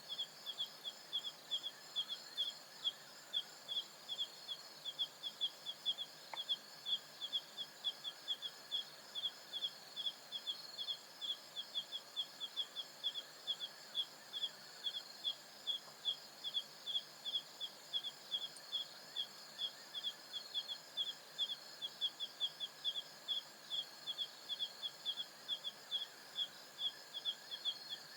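Night insect chorus in African savanna bush: one loud, high chirp repeating evenly about three or four times a second over a steady, higher-pitched trilling from other insects.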